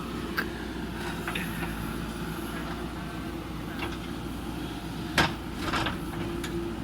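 Backhoe loader's diesel engine running steadily, with several sharp knocks over it, the loudest about five seconds in.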